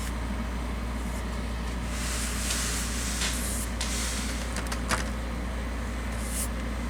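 Soft swishing of a paintbrush drawn across a model building's siding, spreading thinned acrylic paint, over a steady low hum. The strokes are strongest a couple of seconds in, with a small click near the middle.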